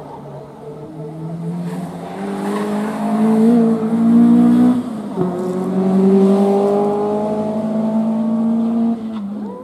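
Toyota Starlet hatchback's four-cylinder engine revving hard through a corner and passing close by, loudest about four seconds in. After a brief dip around five seconds in, it pulls away on a steady, slowly rising note that drops off near the end.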